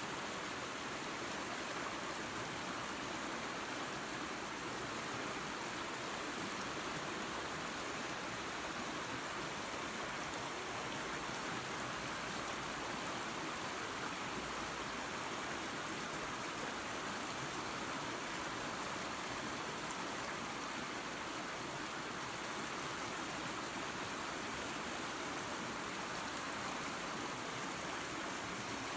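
Water rushing steadily over a small waterfall into a creek, an even, unbroken hiss of running water.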